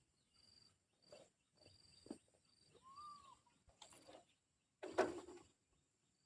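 Faint high bird chirps repeating, with one arching call about three seconds in, a few light clicks, and a loud rustling knock about five seconds in.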